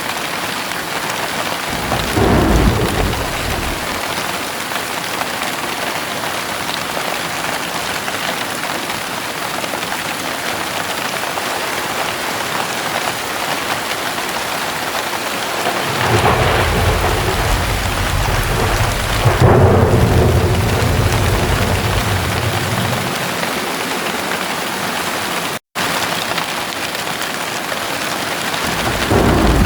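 Steady heavy rain with thunder: a short rumble about two seconds in, a long rolling rumble that swells in the second half, and another rumble starting near the end. The sound cuts out for a split second shortly after the long rumble.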